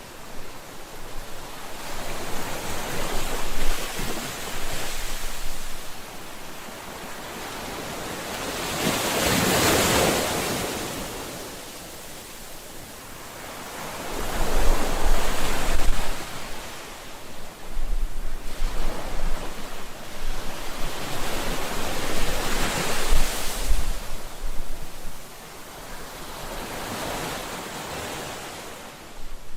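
Ocean waves breaking and washing on the shore, several slow surges swelling and falling away, with light wind buffeting the microphone.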